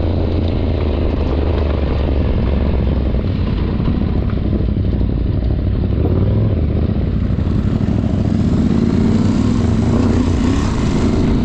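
Adventure motorcycle engine running under way off-road, its revs climbing in the second half.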